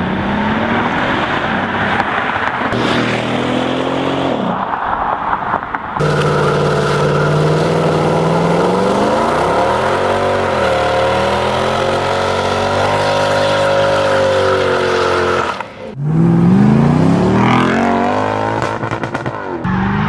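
Mercedes-Benz S63 AMG (W221) V8 engine and exhaust under hard acceleration, its pitch climbing through the revs in several separate runs. The sound changes abruptly about six and sixteen seconds in, where one clip gives way to the next.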